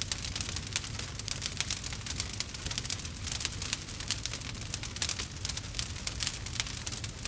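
Campfire crackling: many small, irregular pops and snaps over a steady low rumble of burning.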